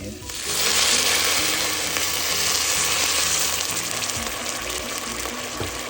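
Chicken broth poured into a hot pan of frying rice, onion and tomato paste, sizzling loudly as it hits. The sizzle bursts up about a third of a second in and slowly dies down.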